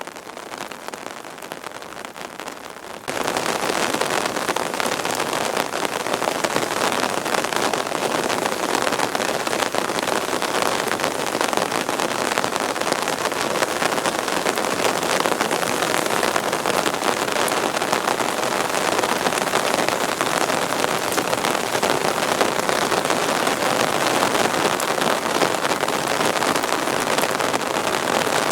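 Heavy rain falling: a dense, steady hiss that jumps suddenly to a much louder downpour about three seconds in.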